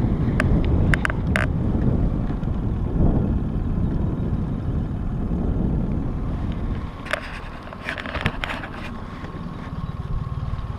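A boat's outboard motor running, a dense low rumble with a steady whine on top, easing off for a couple of seconds past the middle. A few sharp knocks come near the start and again later on.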